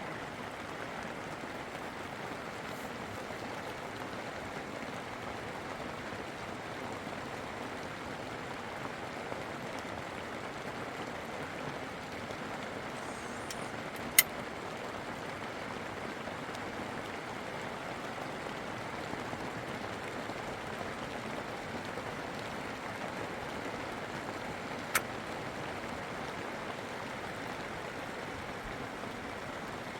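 Steady rush of running water, even and unbroken. Two sharp clicks cut through it, a loud one about halfway through and a fainter one near the end.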